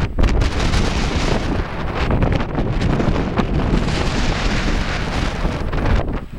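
Strong sandstorm wind buffeting the microphone: a loud, steady rush with a deep rumble and hiss, dipping briefly near the end.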